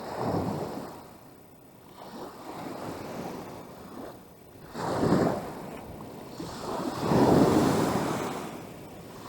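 Choppy lake water washing against the shore in wind, coming in surges: a swell near the start, another about five seconds in, and the loudest, longest one a couple of seconds later.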